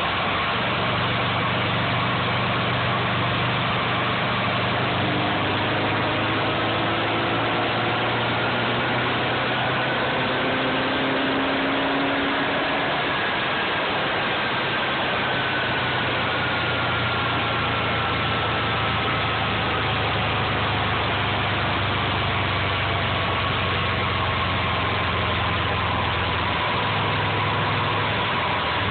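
Subaru EJ22 flat-four engine idling steadily, with faint whines that drift slowly up and down in pitch.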